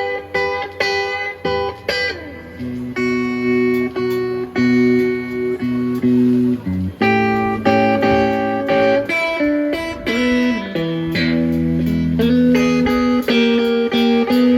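Blues guitar playing, with no singing: picked single notes and ringing chords, with a few notes bent or slid.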